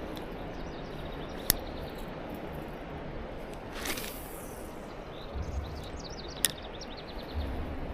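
Outdoor riverbank ambience: a steady low rush of wind and water, with two sharp clicks, a brief hiss about four seconds in, and faint short high chirps near the end.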